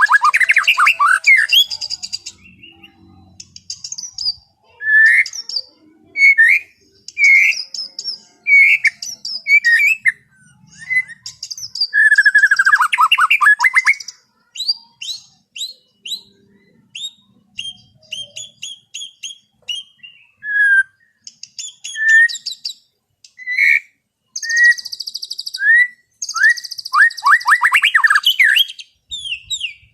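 White-rumped shama singing a loud, varied song: clear whistles, quick downward-sweeping notes and fast rattling runs in short phrases with brief pauses between them.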